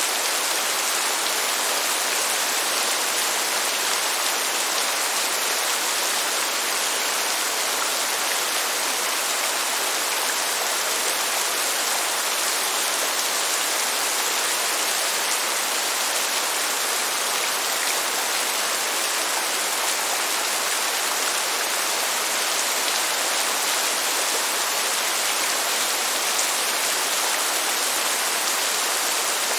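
Steady rain falling, an even hiss with no rise or fall and no thunder.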